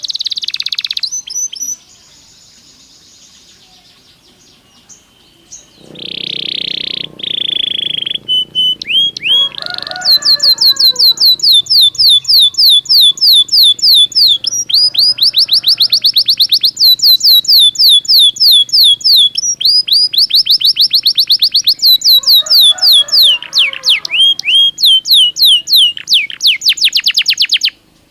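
Belgian canary singing: a short trill, a held note, then long rolls of fast, evenly repeated downward-sweeping whistled notes that stop abruptly near the end.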